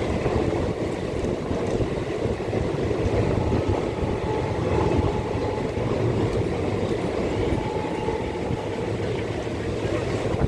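Indian Railways passenger train running, a steady rumble of the coach and its wheels on the track heard from on board, with a faint steady whine in the middle.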